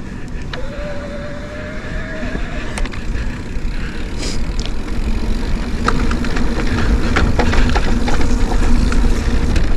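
Mountain bike being ridden on a trail: a steady low rumble, like wind on the microphone, with rattling clicks and knocks from the bike, getting louder through the second half.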